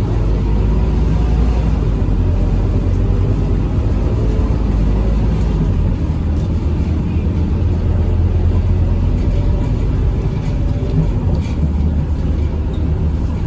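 Scania K230UB bus's five-cylinder diesel engine running steadily as the bus travels, a deep drone whose pitch shifts slightly about six seconds in.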